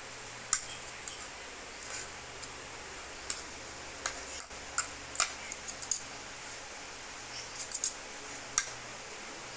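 Cooked chicken breast being shredded into thin strips: scattered, irregular small clicks and soft wet tearing sounds, a few sharper snaps among them, over a faint steady hum.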